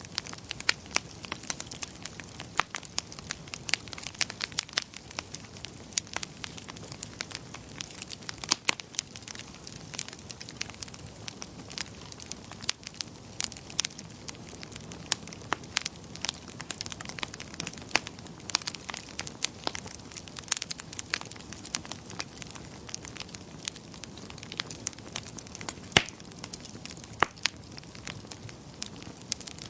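Wood fire crackling in a fireplace: many irregular sharp pops and snaps, several a second, over a soft steady hiss of burning.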